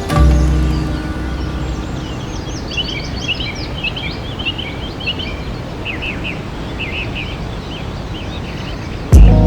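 Birds chirping in many quick, varied calls over a steady outdoor hiss. Music fades out in the first second or two and starts again abruptly near the end.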